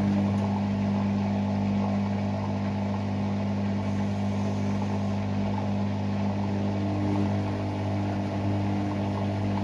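Hoover Six Sportswear 1300 (AI 130) washing machine running with a steady motor hum at an even level.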